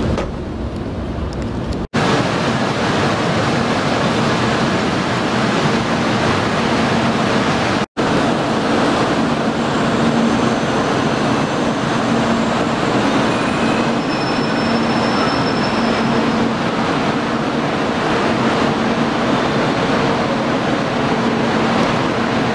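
Steady running noise of a train, with a constant low hum under the rushing, broken by two brief sudden dropouts about two and eight seconds in.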